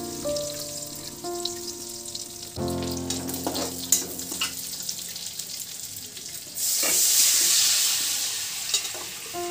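Food frying in oil in a steel wok, with a metal slotted spatula scraping and stirring. About six and a half seconds in, a sudden loud sizzling hiss as the boiled fish and its liquid are poured from a pressure-cooker pot into the hot oil; it fades over a couple of seconds. Background music with held notes plays over the first half.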